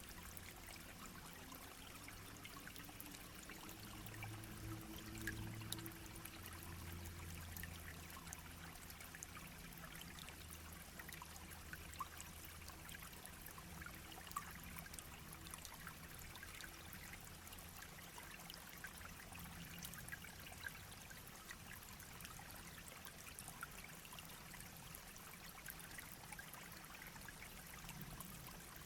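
A small shallow brook babbling and trickling, with many little splashes. A faint low hum comes and goes through the first two-thirds.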